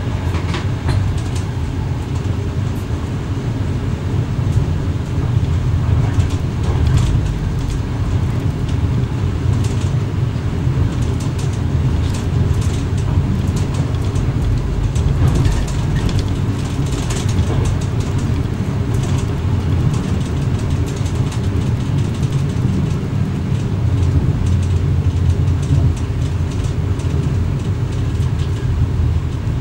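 Cab interior of an X11 electric multiple unit running on the line: a steady low rumble, with scattered clicks and rattles through the middle of the stretch.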